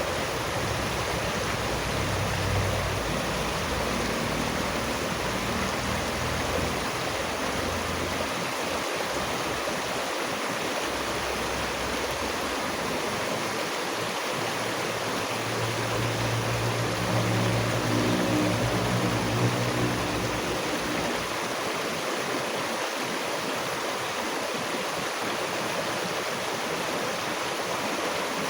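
Stream water rushing in a steady, even wash. A low hum comes and goes underneath it, strongest about two-thirds of the way through.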